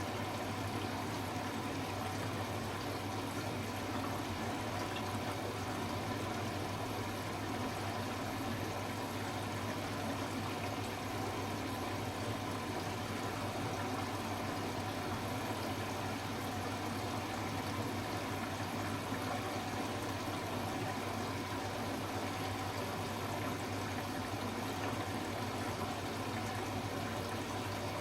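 Hoover H-Wash 300 Plus washing machine during its rinse stage: water running through the machine over a steady motor or pump hum.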